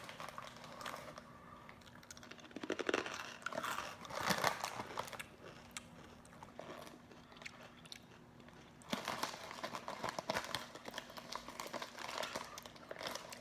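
Close chewing and crunching of dry toast-stick snacks, coming in irregular bouts. The crunching is densest in the last few seconds.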